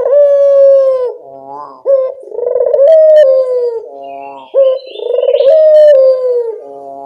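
Barbary doves (local burung puter) cooing as a lure call: long, slightly falling coos about every two seconds, with short rolling notes between them.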